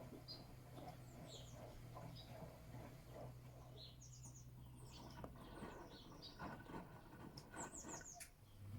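Gorenje washing machine running quietly in its wash cycle: a low motor hum that stops about five seconds in, then a few soft knocks, with faint high chirps throughout.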